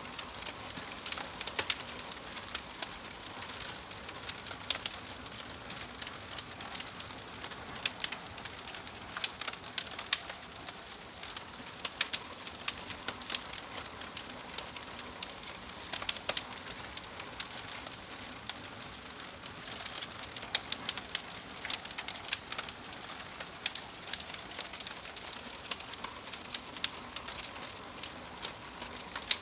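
Fire crackling: a steady hiss with frequent irregular sharp pops and snaps, a few of them louder.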